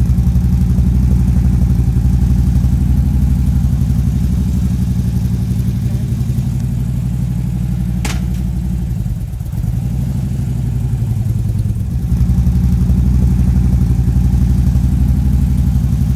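Motorcycle engine running steadily with a deep, even note. About halfway through there is one sharp click, the engine briefly drops, then picks up again.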